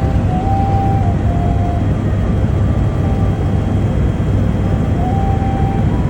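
Helicopter cabin noise in level flight: a steady, loud drone of the engine and rotor with a strong low hum.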